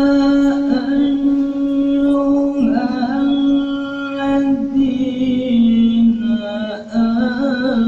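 A man reciting the Quran in melodic tilawah style, one voice holding long notes with ornamented runs; the pitch steps down a little past the middle.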